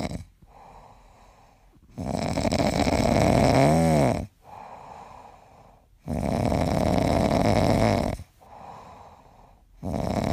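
Pomeranian puppy snoring in its sleep: long, rough snores of about two seconds each, coming about every four seconds, with faint breathing between.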